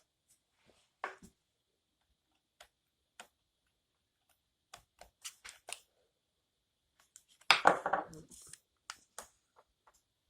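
Small parts and tools being handled by hand: scattered light clicks and taps, with a louder rustling clatter about three-quarters of the way through.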